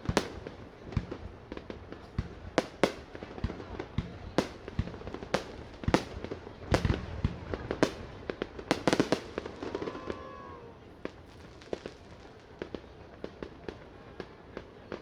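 Aerial fireworks bursting: a quick, irregular run of sharp bangs, dense for most of the first nine seconds, then thinning out and getting fainter. There is a short pitched voice-like sound about ten seconds in.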